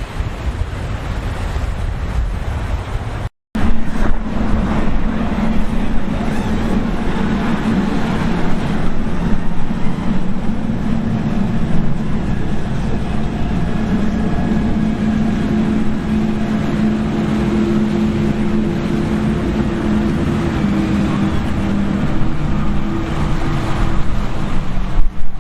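Wind and surf on the microphone, then after a brief cut a steady powerboat engine drone with a low hum and a higher tone that drifts slightly, over wind and water noise.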